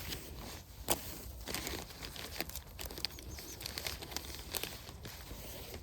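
Irregular soft crackles and rustles, with a few faint high bird chirps near the middle.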